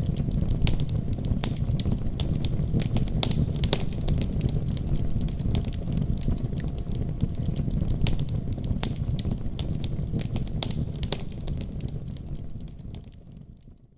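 Wood fire burning in a fireplace, crackling with frequent sharp pops over a low rumble of flames. It fades out near the end.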